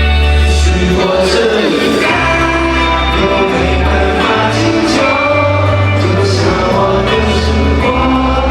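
Live pop concert music: a band with a heavy bass line and sung vocals, playing continuously at a loud level.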